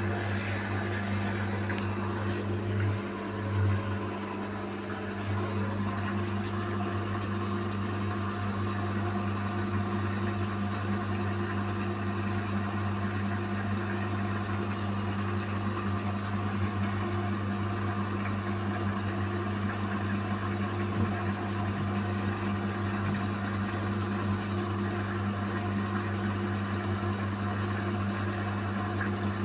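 Beko WMY81283LMB2 washing machine running through its final spin with an unbalanced load of curtains, a steady low motor hum with a slight dip about four seconds in.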